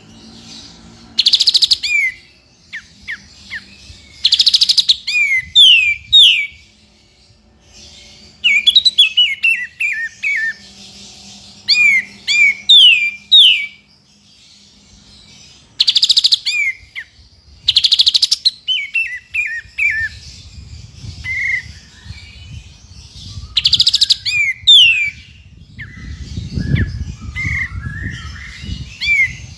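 Songbirds singing in a looped mix of three birds' songs, used as masteran training song for caged birds. Short harsh chattering bursts alternate with quick runs of falling whistled notes, repeated in clusters every few seconds.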